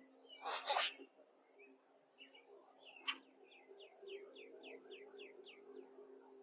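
Small songbird singing a run of about nine quick, falling chirps at roughly four a second, after a brief loud noise about half a second in and a sharp click near three seconds. A faint steady hum runs underneath.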